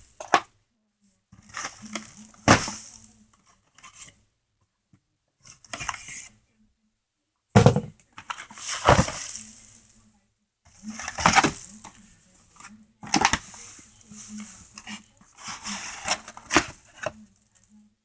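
A cardboard box of fireworks being opened and handled: irregular stretches of rustling and scraping with several sharp knocks, separated by short silent gaps.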